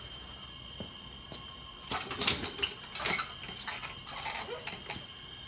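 Tools and small metal parts handled on a workbench: a cluster of clinks and clatter about two seconds in, another about three seconds in, and a few lighter knocks near the end.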